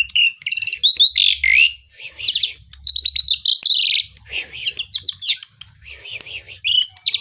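Asian pied starling (jalak suren) singing continuously: a fast, varied run of whistles, trills and harsh chattering notes with short pauses between phrases.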